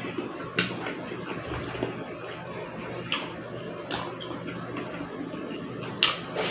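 Someone eating: chewing, with four sharp clinks of cutlery on dishware about half a second, three, four and six seconds in.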